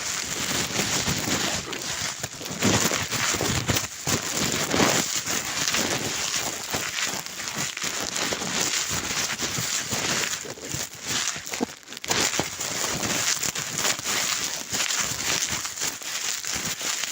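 Dry leaves crinkling and crackling as they are handled up close, in a dense, irregular run of small crackles and rustles.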